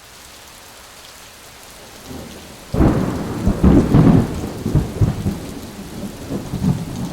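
Steady hiss of rain, then a loud rumble of thunder about three seconds in that rolls on in uneven surges.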